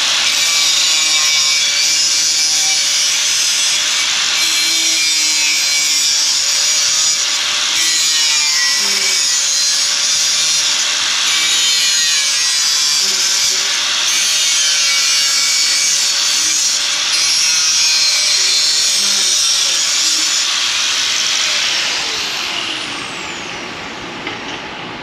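Power tool cutting into steel, making relief cuts in a strip of sheet metal: a loud, steady, hissing cut over a steady motor whine. Near the end the motor winds down with a falling pitch.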